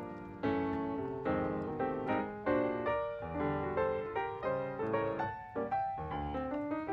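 Background music: solo piano played at a moderate pace, notes and chords struck and decaying.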